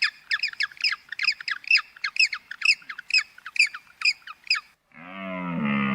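A bird squawking in a rapid series of short, sharp calls, about two a second. About five seconds in, the squawking stops and a deep, drawn-out animal call with a wavering pitch begins.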